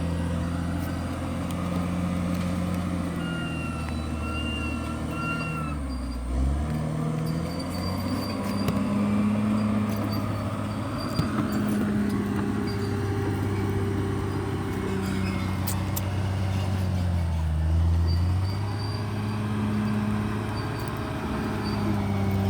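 Bulldozer's diesel engine running steadily, its pitch sagging and recovering twice, as if lugging under load, about six seconds in and again near the end. A brief high-pitched whine sounds about four seconds in.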